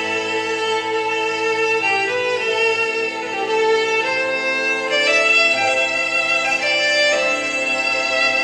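Live violin playing a Celtic melody in long held notes over a lower accompaniment.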